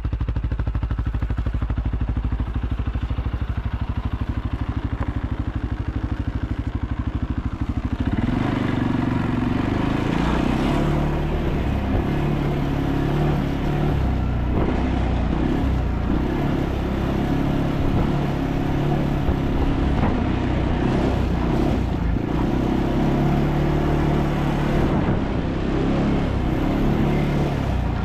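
ATV engine idling steadily, then about eight seconds in it pulls away and runs louder under load, its pitch rising and falling as it rides.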